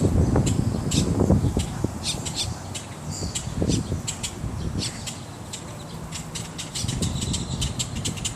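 Birds calling overhead with many short, sharp calls one after another, with a low rumble on the microphone in the first second and a half.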